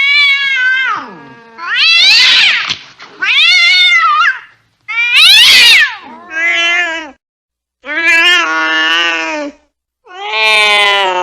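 Cat yowling in anger: about seven long, drawn-out calls that rise and fall in pitch, with short breaks between them, the threatening caterwaul of an angry cat.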